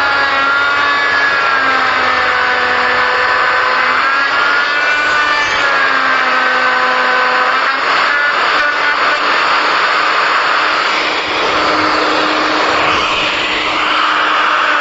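Handheld electric power tool, such as a grinder, running continuously while cutting into wood. Its motor whine shifts slightly in pitch as the load changes, over a steady hiss of cutting.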